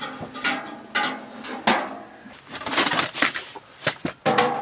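A series of sharp metal clanks and knocks, several with a brief ring, as a metal propane tent stove is handled.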